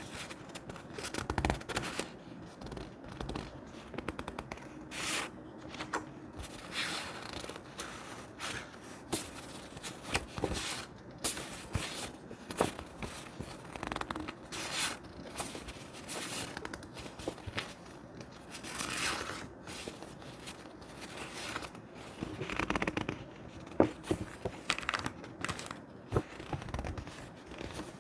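Thick scrapbook paper being handled, rustling and scraping in short, irregular strokes with a few sharp clicks.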